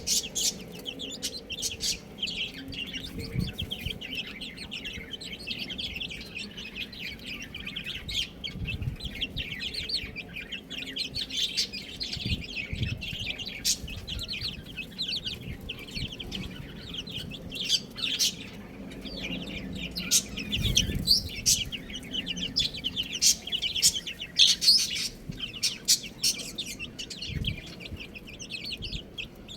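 Chicks peeping, many at once in a dense run of short high chirps, with a few sharp clicks among them.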